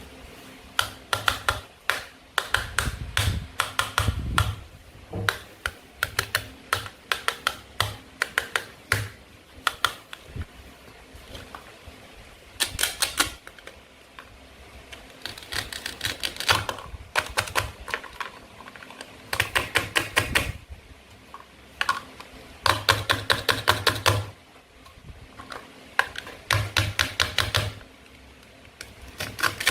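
Small hard clicks and taps in quick runs of about a second each: plastic play food being handled and cut with a toy knife.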